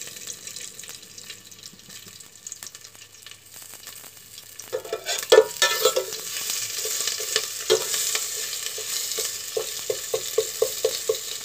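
Ginger sizzling in a little corn oil in an aluminium pot, stirred with a metal turner that scrapes and knocks against the pot. The sizzle grows louder about halfway through, and near the end the turner taps the pot in a quick, even run, about five taps a second.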